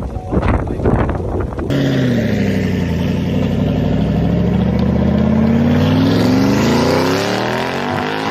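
After a second or two of knocking and rustling, a Ford Mustang Shelby GT500's supercharged 5.2-litre V8 runs steadily, its pitch sinking and then climbing again as the revs fall and rise.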